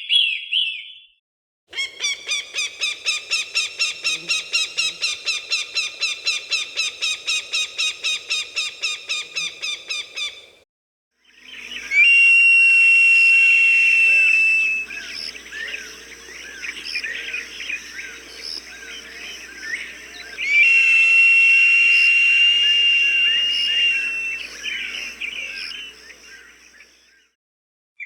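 Recorded hawk calls: first a rapid series of repeated call notes, about five a second, lasting some eight seconds. Then, in a second recording with smaller birds chirping in the background, come two long, steady, high calls of about three seconds each.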